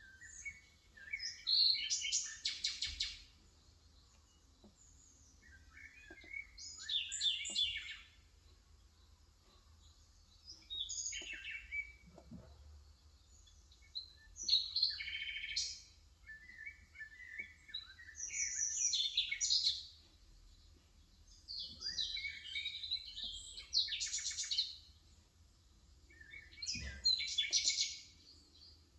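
A bird singing in short repeated phrases, about seven in all, a couple of seconds apart, several ending in a fast trill.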